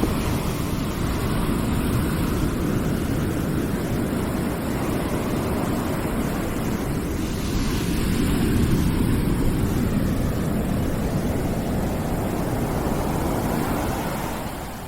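Steady rushing background noise, deep and rumbling rather than hissy, swelling slightly about eight seconds in and falling away just before the end.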